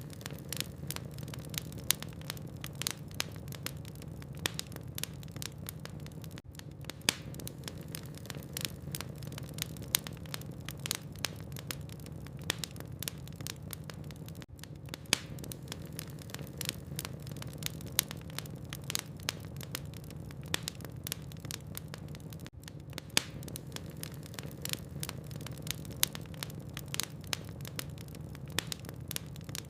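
Logs burning in a fireplace, crackling: many irregular sharp pops and snaps over a steady low rumble of the fire.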